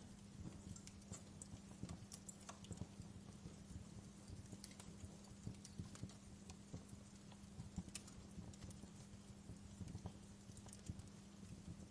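Wood fire crackling faintly: irregular small pops and snaps, a few sharper ones, over a steady low hum.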